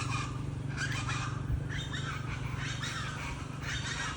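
Unseen birds giving an unfamiliar chattering call in short bursts, about once a second, over a steady low hum.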